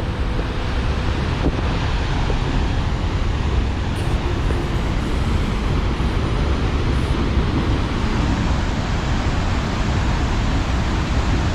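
Flood-swollen creek rapids rushing, a loud steady roar of water with no break.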